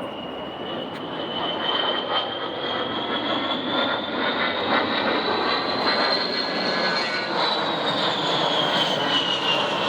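A-10 Thunderbolt II's twin TF34 turbofan engines in a low pass: a high whine over a jet rush, growing louder and climbing slowly in pitch, then dropping in pitch about seven and a half seconds in as the jet goes by.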